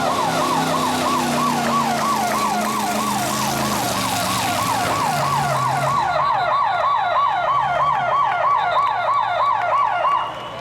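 Electronic siren in a rapid yelp, sweeping up and down about three times a second, cutting off about ten seconds in. Underneath it is a low engine rumble that fades about six seconds in.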